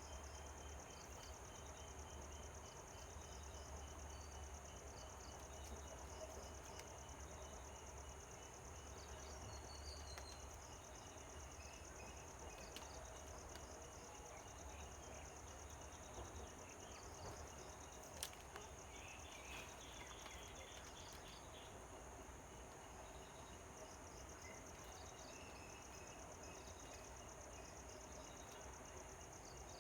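Insects trilling in a steady, high, fast-pulsed chorus, faint, with a few scattered faint chirps. One sharp click a little past the middle.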